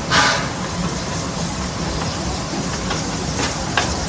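Steam-powered park train running, heard from aboard: a steady low rumble of the train on the track, with a short loud hiss of steam right at the start and a sharp click a little before the end.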